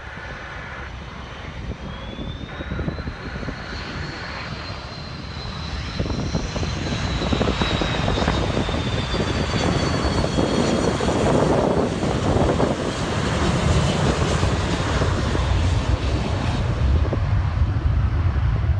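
Large jet airliner flying past low on its landing approach. A high engine whine rises and then slowly falls in pitch over a deep rumble, which builds and is loud from about six seconds in.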